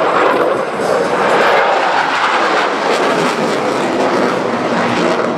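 Dassault Rafale C fighter's twin Snecma M88 turbofans: loud, steady jet noise from the aircraft flying its display.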